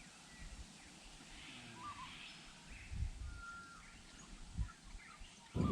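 Birds calling in the background, repeated short chirps and brief whistled notes over a quiet outdoor hush, with a couple of soft low thumps.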